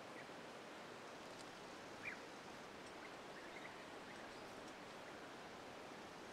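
Faint, steady outdoor background hiss with one short bird chirp about two seconds in and a few fainter chirps a little later.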